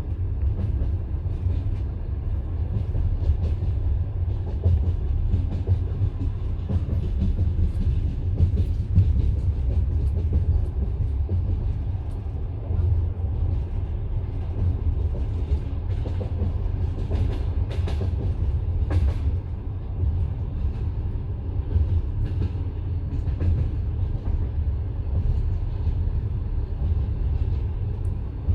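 Passenger railway carriage under way: a steady low rumble of the running gear, with the wheels clacking over rail joints now and then and a cluster of sharper knocks a little past the middle.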